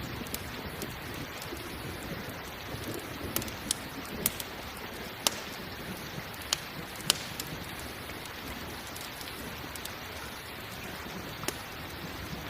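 Steady rain with the sharp pops of a crackling campfire, a handful of them bunched in the middle and one more near the end.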